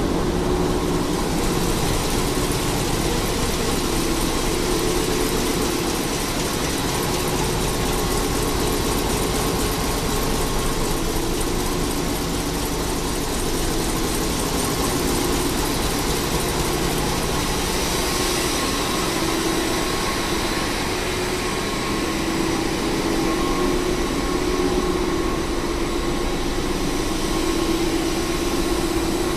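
Diesel machinery in a ship's engine room running steadily: a loud, unbroken mechanical din with several steady hums.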